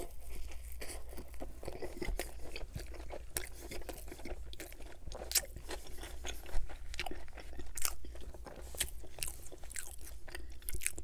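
Close-miked chewing of a Chicago-style hot dog (bun, tomato, pickle and relish), with irregular wet clicks and crackles of the mouth working the food.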